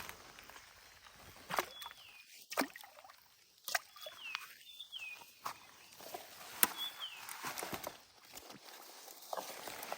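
Outdoor ambience with scattered sharp clicks and knocks, and a short high animal call that falls in pitch, repeated four or five times.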